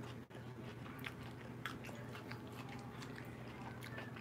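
A person chewing a bite of food: faint, scattered small mouth clicks over a steady low hum.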